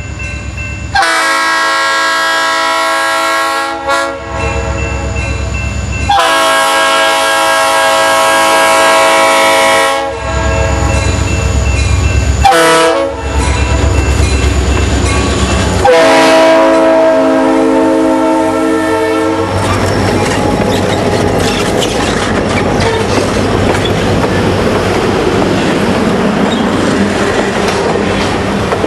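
Diesel locomotive air horn with several chime notes, sounding the grade-crossing signal: long, long, short, long. Then the train passes close by and its wheels clatter over the rail joints.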